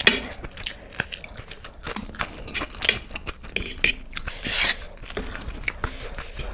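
Close-miked eating sounds of a person chewing spicy masala Maggi noodles: wet chewing with irregular clicks and smacks, and one longer, louder noise a little past four seconds in.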